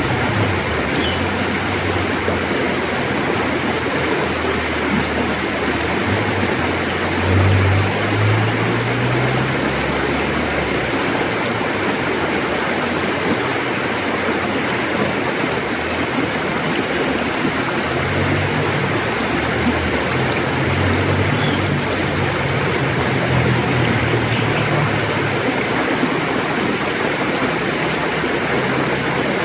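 River water rushing and flowing steadily, with a low rumble that swells and fades underneath.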